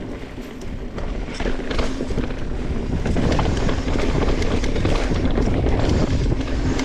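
A mountain bike being ridden fast down a dirt trail: wind rushing over the camera microphone, with tyre noise and the bike rattling over rough ground in many scattered knocks.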